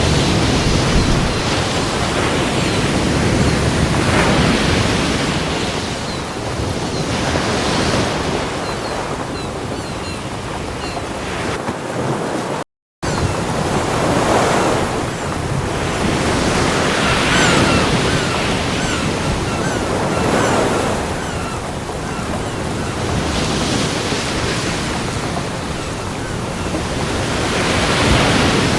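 Ocean waves breaking on a beach, the surf rising and falling in swells every few seconds. The sound cuts out for a split second about halfway through.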